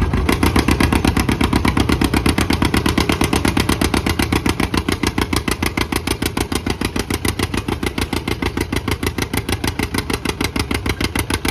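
John Deere A's two-cylinder engine pulling, with an even popping beat of about seven pulses a second that slowly grows fainter.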